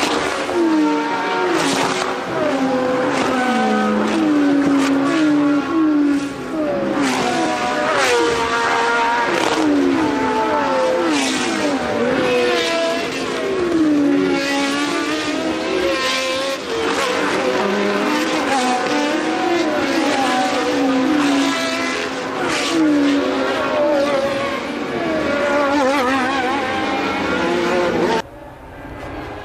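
Several 1982 Formula One cars' engines at racing speed, revving high and shifting gear as they pass in quick succession, with the pitch of each car rising and then falling away. The sound drops off abruptly near the end.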